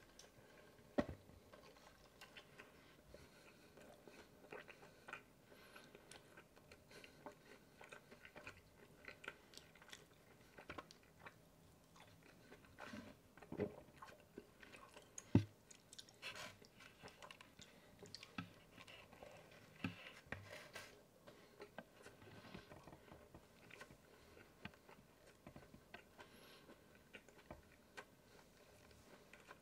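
Close-miked chewing and biting of a California burrito, with many short mouth clicks scattered throughout; a sharp click comes about a second in and the loudest about fifteen seconds in.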